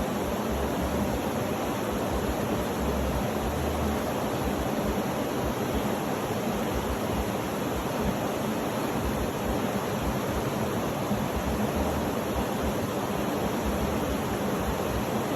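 Steady, even rushing noise of a sleep-sound track, a continuous hiss with no distinct events or changes in level.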